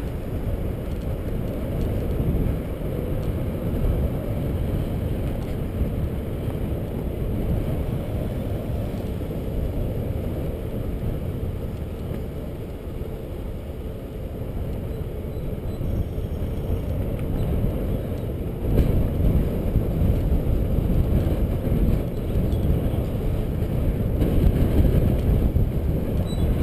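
Wind and riding noise on the microphone of a camera on a moving bicycle: a steady low rumble that grows louder about two-thirds of the way through.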